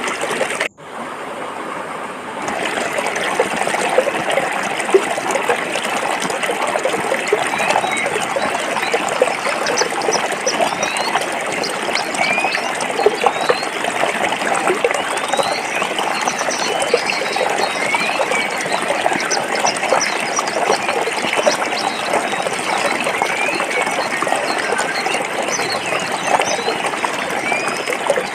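Stream water flowing and splashing over rocks, a steady trickling rush, with faint short high chirps scattered through it. The sound cuts out for a split second about a second in, then picks up again.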